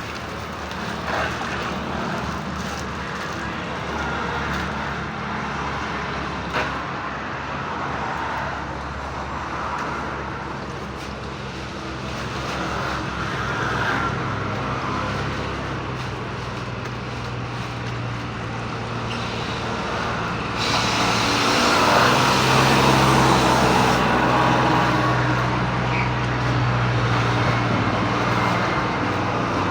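An engine running steadily under a rushing noise, getting louder about two-thirds of the way in.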